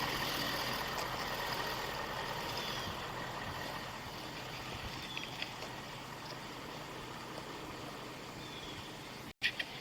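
Steady background noise with a vehicle engine running, slowly growing fainter; the sound drops out for an instant near the end.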